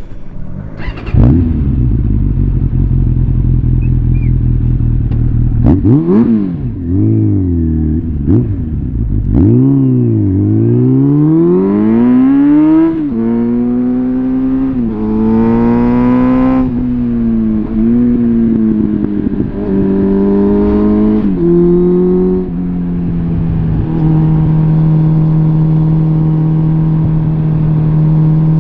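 Suzuki GSF650 Bandit's inline-four engine through a complete Arrow exhaust system, starting up about a second in and idling. It is then blipped several times, rising and falling in quick revs. After that it pulls away, climbing in pitch through the gears with drops at each shift, holds steady near the end, then begins to rise again.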